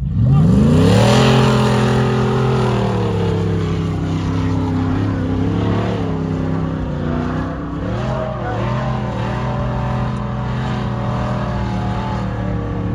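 Off-road 4x4's engine revving up sharply, then held at high revs under load. Its pitch dips and rises again midway as the load changes, then settles.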